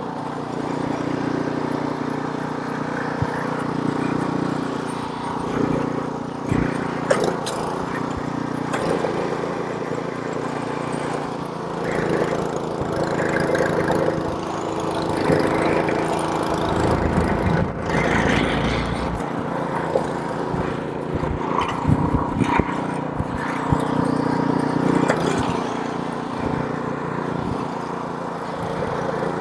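Gas snowblower's small engine running steadily while clearing snow, with scattered sharp clicks and brief swells of noise over the steady hum.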